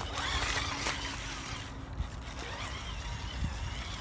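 Small electric off-road RC car driving over rough ground, its motor whine wavering up and down with the throttle over a steady noise of tyres and rumble.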